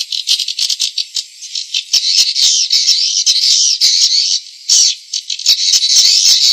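Recorded swiftlet calls: a dense, high-pitched chatter of rapid clicking chirps from many birds, with the low end cut away. It is a swiftlet farmers' lure call, played to draw swiftlets into a nesting house.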